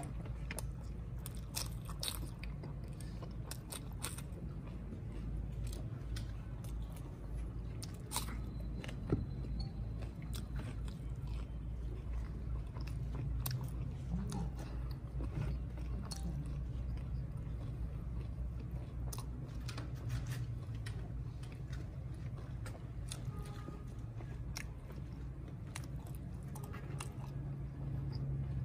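Close-miked chewing of spicy liver curry (kaleji), eaten by hand: wet chewing and mouth sounds with many small clicks, over a steady low hum.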